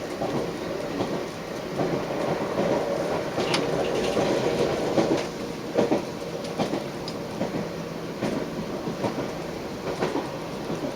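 Train running on the track: a steady rumble with irregular clicks and knocks from the wheels.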